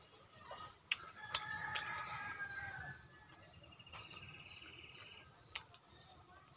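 A bird calling in the background: one drawn-out call about a second and a half long beginning just over a second in, then a rapid pulsing call. A few sharp clicks are scattered around the calls.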